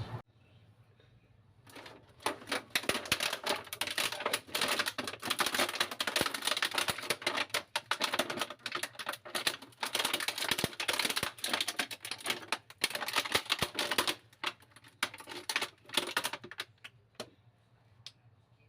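Dense, rapid dry scratching and crackling from hand work, starting about two seconds in and stopping abruptly after about fifteen seconds, followed by a few last scratches.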